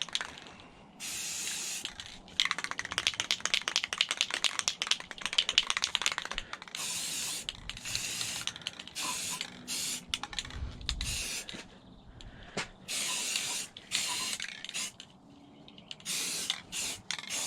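Aerosol spray-paint can spraying engine parts in a series of hissing bursts, some under a second and one about four seconds long, with short pauses between them.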